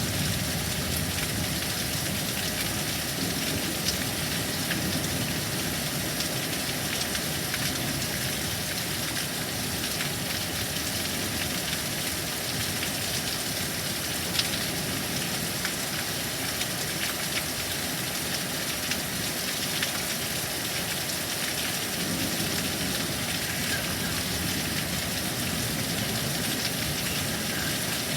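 Steady heavy rain pouring down in a thunderstorm, with a few faint sharp drop ticks.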